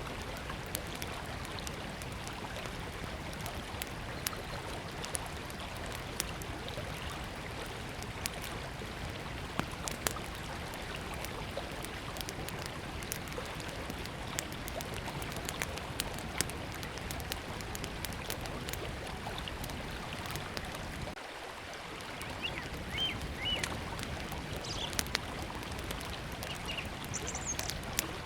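Small wood campfire crackling with scattered sharp pops over the steady rush of a flowing river. A few short bird chirps come in during the second half.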